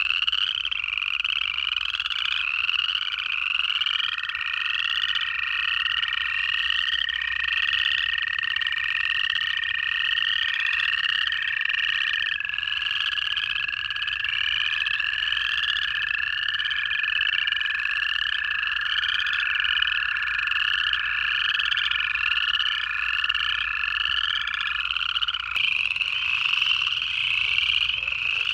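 A frog chorus of upland chorus frogs, their short rising trills repeating constantly and overlapping. Beneath them, long steady trills of American toads, lower in pitch, run on for several seconds each, overlapping one another, and stop a few seconds before the end.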